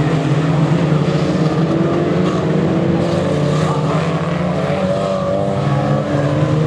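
Several small race cars' engines running hard together, their overlapping engine notes rising in pitch as they accelerate.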